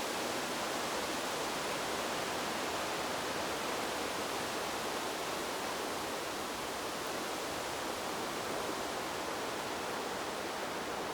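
Wind blowing through a bamboo grove, a steady, even hiss of moving leaves with no distinct gusts.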